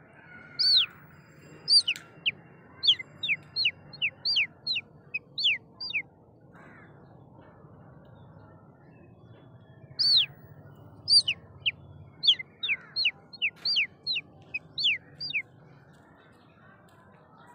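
A bird calling: two runs of about a dozen short, falling whistled notes. The first run starts about a second in and the second about ten seconds in, over faint background noise.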